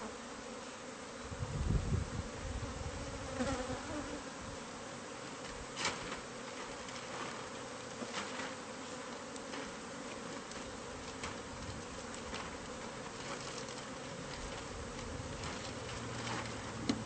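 Steady buzzing of a disturbed honeybee colony swarming around an opened wall hive. A low thump comes about two seconds in, and scattered clicks and knocks from handling follow.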